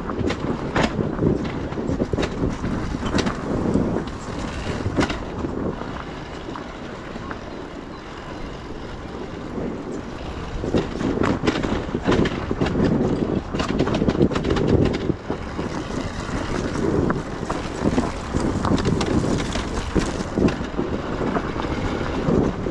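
Enduro motorcycle running on a dirt trail under changing throttle, its engine rumble mixed with wind buffeting the camera microphone and the rattle and knocks of the bike over rough ground. It eases off for a few seconds early on, then grows louder again.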